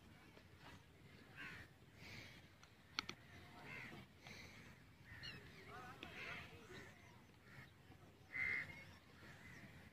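Faint outdoor ambience with scattered distant bird calls and chirps, one call louder than the rest near the end.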